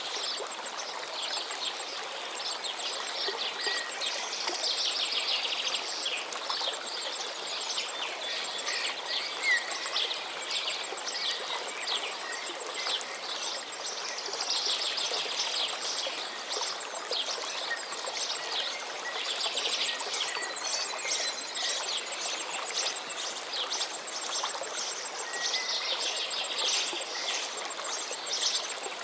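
Small birds chirping and trilling continuously over the steady rush of flowing water.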